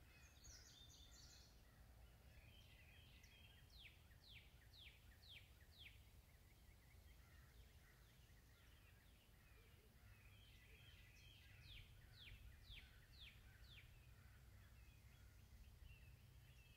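Faint birdsong over a steady low background rumble: a bird sings two runs of quick downward-sweeping notes, one a few seconds in and another about two-thirds of the way through, with bits of higher twittering before each run.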